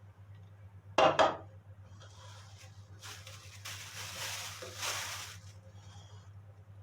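Two quick clinks of kitchen dishes about a second in, then a few seconds of hissing, rustling noise that swells twice.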